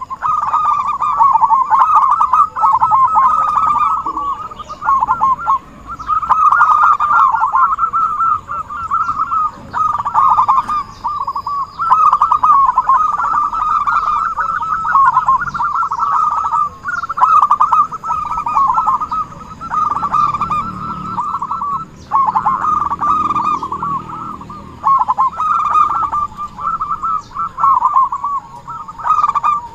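Zebra doves (perkutut) cooing in a dense, overlapping run of rapid notes, a lure recording for attracting the birds, broken by short pauses every few seconds.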